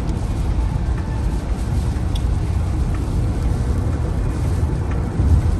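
Heavy rain falling: a steady rushing noise with a strong deep rumble and a few faint ticks.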